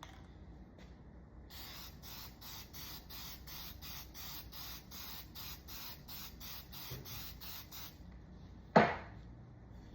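Lacquer being applied to a bubinga board in quick, even back-and-forth strokes, about three a second, with a hissing, rubbing sound, for about six seconds. A single sharp knock comes near the end.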